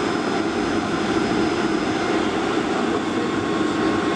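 Steady jet engine and airflow noise of a Boeing 757 airliner, heard from inside the passenger cabin. The noise is even and unchanging, with a few faint steady tones.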